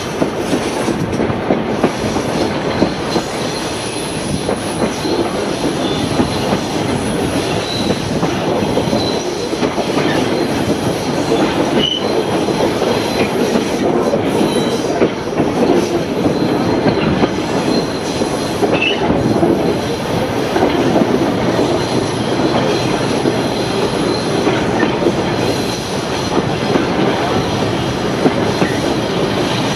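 Passenger carriage of a heritage train running along the line: steady rolling noise and rattle of wheels on rails, with a couple of brief high wheel squeals partway through.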